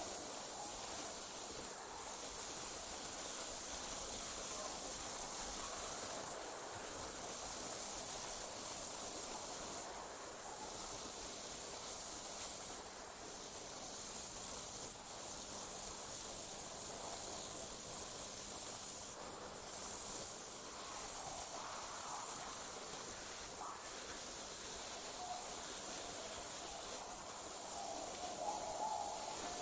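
Night insects trilling in a steady, high-pitched chorus that drops out for a moment every few seconds. Faint lower chirps come in near the start and near the end.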